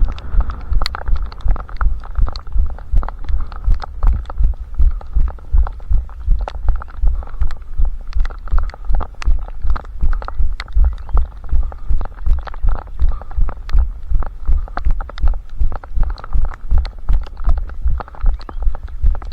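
Running footfalls heard through a head-strapped camera: a steady rhythm of heavy low thuds, one with each stride, with small clicks and rattles on top.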